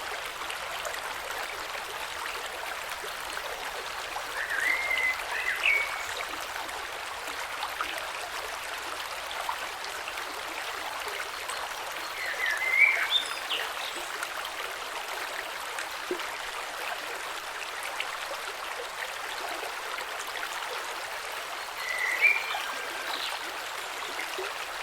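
Small creek flowing steadily over stones below a waterfall, a constant rush of water. Three short chirping calls rise above it: about five seconds in, near the middle, and near the end.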